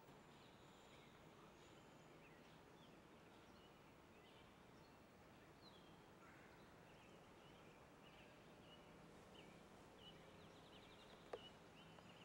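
Faint outdoor ambience: small birds chirping now and then over a steady low hiss, with a single sharp click near the end.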